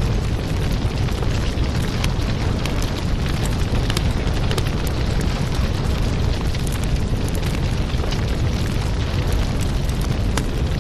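Fireplace fire crackling: a steady low roar of burning with many small, sharp pops and crackles.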